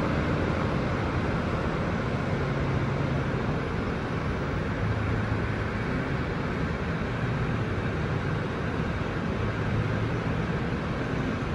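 Loco-hauled Flixtrain passenger train moving slowly through the station, a steady running noise with a faint low hum.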